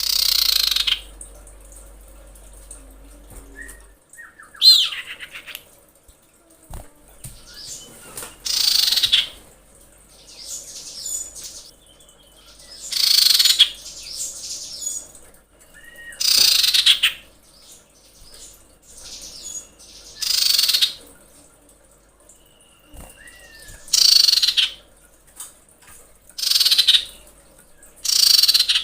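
Female common iora giving a series of about nine harsh calls, each roughly a second long, every three to four seconds, with a few short thin whistles between them. This is the call of a female in breeding condition calling for a male.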